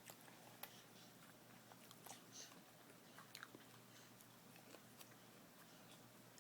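Faint chewing of apple, with a few soft crisp crunches at irregular moments.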